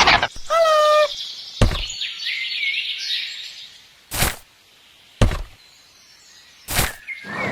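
A brief pitched tone, then four separate sharp knocks spread over several seconds, with faint chirps in between.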